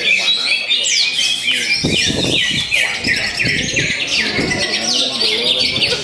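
Many caged contest birds singing at once: a dense, continuous chorus of short, overlapping high chirps and trills.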